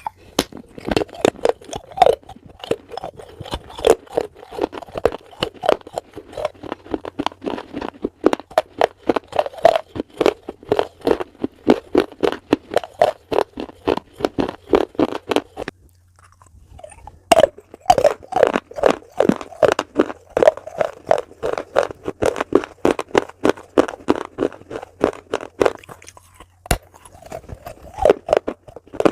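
Close-miked chewing of crunchy food: sharp crunches in quick succession, about three a second, with a pause of about a second and a half just past halfway.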